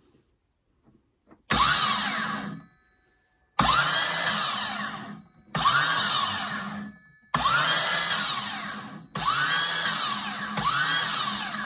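Makita DSS611 cordless circular saw's brushed motor, fed straight from a 12-volt motorbike battery and bypassing the control unit, spinning the blade in six short trigger bursts. Each run starts suddenly, whines up in pitch and winds down as it coasts. It shows the motor and trigger switch are fine and the fault lies in the burnt-out control unit.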